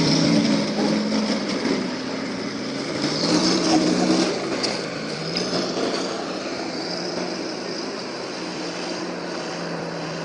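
A motor vehicle's engine running, its pitch shifting up and down over the first few seconds, then settling into a steady drone.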